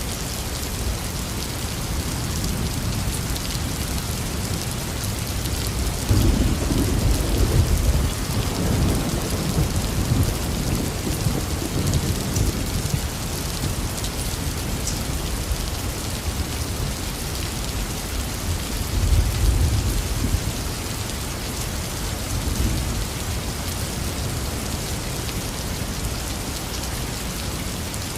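Heavy rain falling steadily, with rolls of thunder: a loud low rumble begins about six seconds in and dies away over several seconds, and another swells up around nineteen seconds in.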